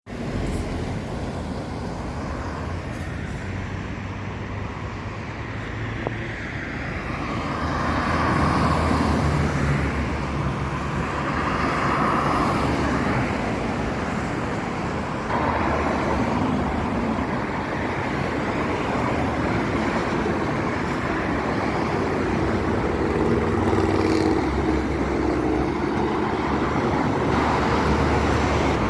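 Road traffic: vehicles passing one after another, with a steady engine hum and tyre noise that swells and fades.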